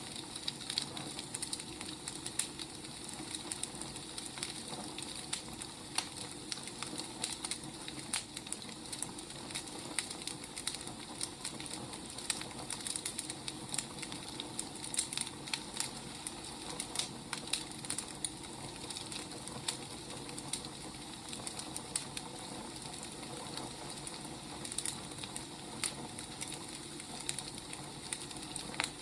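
Wood fire crackling and hissing, with irregular sharp pops over a steady hiss.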